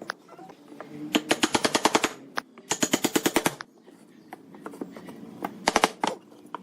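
Three rapid runs of sharp mechanical clicks, about a dozen a second: the first two last about a second each, a third short run comes near the end.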